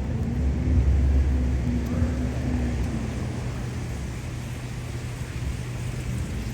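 Low rumble of city street traffic, a vehicle engine swelling about a second in and easing off, with a faint steady hum over it.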